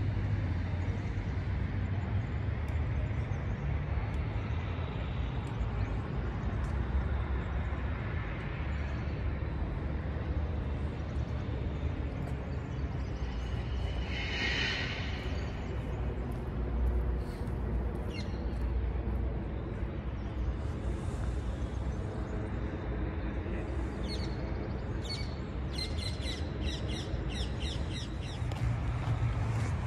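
Outdoor ambience with a steady low rumble. A bird calls briefly about halfway through, then gives a quick series of about six short calls near the end.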